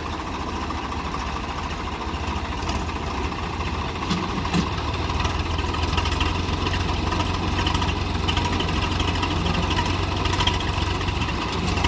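Swaraj tractors' diesel engines running hard in a tractor tug-of-war, a steady low throb that grows louder about four to five seconds in.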